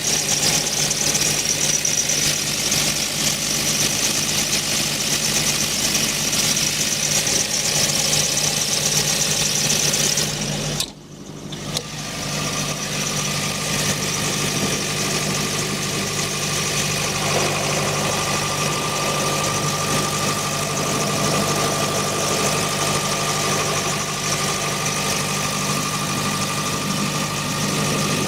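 John Deere 4045HF turbocharged four-cylinder diesel of a Doosan G-60 generator set running at a steady speed. About 11 seconds in the sound drops out briefly and comes back, and from then on a thin, steady high whine runs over the engine note.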